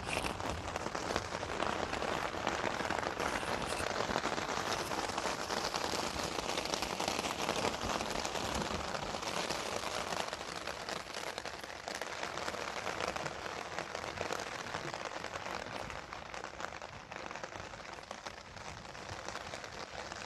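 Steady rain falling, a dense hiss of countless small drops that grows a little quieter in the second half.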